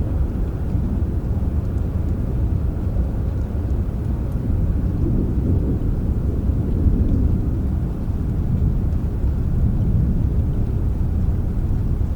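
Low, steady rumble of thunder over soft rain, swelling slightly about halfway through.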